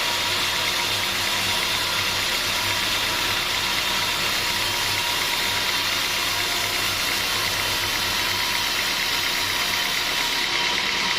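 Sawmill machinery running steadily: a constant mechanical noise with a fine, rapid rattle and a low hum.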